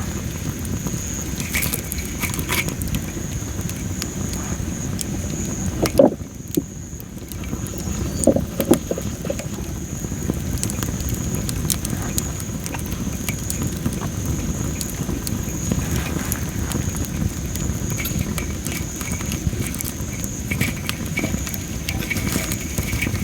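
Campfire of well-dried masaki (Japanese spindle) firewood crackling, with scattered sharp pops and one loud snap about six seconds in.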